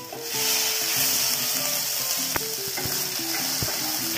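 Crushed ginger-garlic paste sizzling in hot oil in a non-stick frying pan while a wooden spatula stirs it. The sizzle swells about a third of a second in and then holds steady, with two sharp spatula taps on the pan in the second half.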